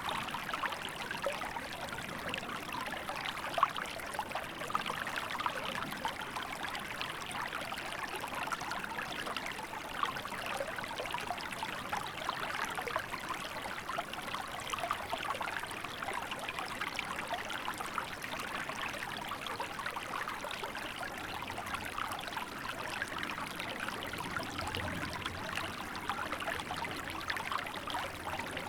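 Small river running in winter: a steady babble and trickle of water over rocks.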